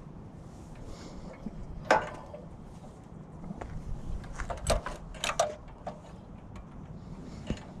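A few sharp knocks and clinks of hard parts being handled: one about two seconds in, then a quick cluster around five seconds in.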